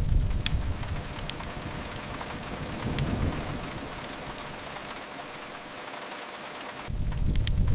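Steady rain hiss against a window with the sharp crackles and pops of a wood fire scattered through it. A low rumble swells and fades about three seconds in and starts up abruptly again near the end.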